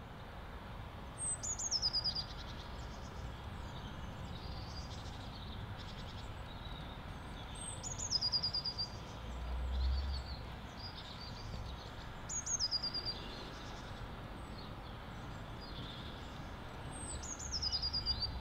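Birdsong: one songbird repeats a short, high, falling phrase of quick notes four times, every four to five seconds, while other birds chirp more softly in between over a steady low rumble.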